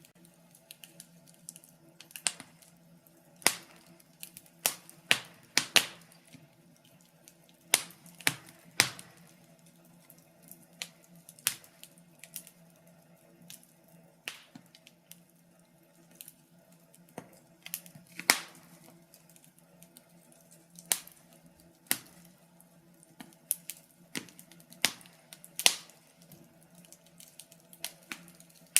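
Wood fire crackling in a fireplace: irregular sharp pops and snaps of burning logs, some loud, over a faint steady low hum.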